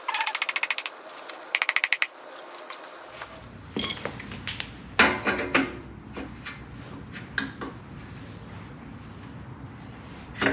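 Ratchet wrench clicking fast in two short runs, then scattered metal clinks and knocks as motorcycle exhaust parts are handled and fitted.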